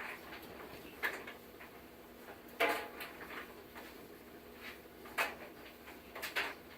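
A handful of light, irregular clicks and knocks of handling, the loudest a bit under halfway through, over a faint steady hum.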